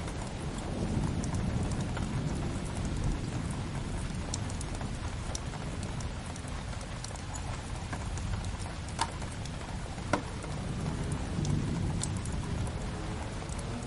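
Steady rain with a low rumble under it, mixed with a wood fire crackling: scattered sharp crackles throughout and two louder pops about nine and ten seconds in.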